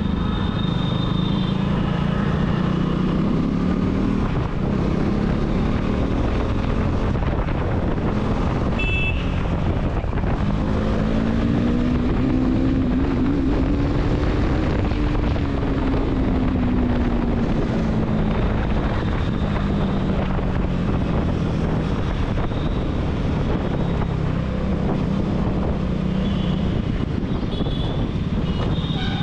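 KTM Duke 390's single-cylinder engine running through an aftermarket dual exhaust while the motorcycle rides, its note rising and falling with the throttle. About ten seconds in, the pitch climbs steadily, then falls away over the following several seconds.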